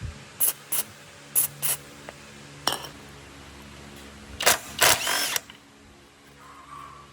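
Workshop tool and handling noises: a handful of short, sharp noisy bursts, some in pairs, then a longer one about four and a half seconds in, over a faint steady hum.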